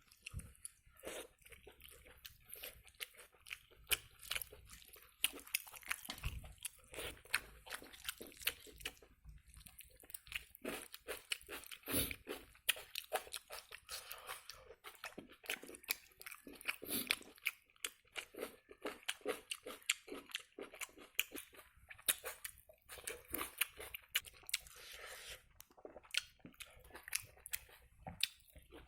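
A person eating a meal of dal, rice and egg: chewing and biting, heard as many short, irregular clicky mouth sounds.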